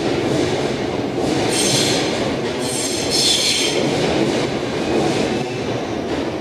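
Kintetsu Series 21 electric train pulling slowly into a station platform: a steady rumble of wheels on rail. Two spells of high wheel squeal come through it, about a second and a half in and again around three seconds in.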